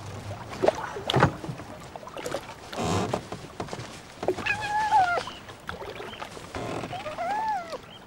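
Rustling and knocks of a canvas rucksack being handled, then a fox cub whining twice in high, wavering calls, one about halfway through and one rising and falling near the end.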